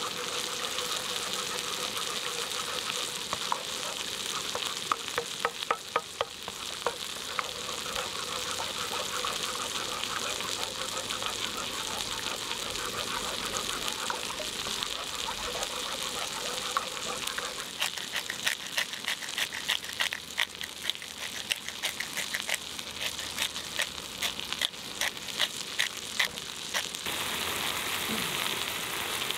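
Food frying in a pan: a steady sizzle with scattered pops, turning into a dense run of sharp crackles and spatters in the second half before easing off near the end.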